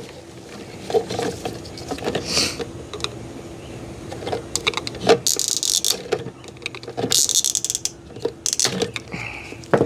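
Flat-head screwdriver prying off the plastic clips of a fuel pump module: scattered clicks and knocks of hard plastic, with two longer scraping rasps in the middle.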